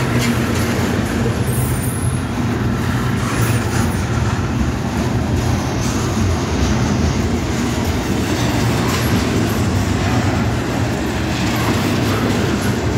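Double-stack intermodal container cars of a freight train rolling past at close range: a steady, loud noise of wheels on rail with the cars rattling, and a brief faint high wheel squeal about a second and a half in.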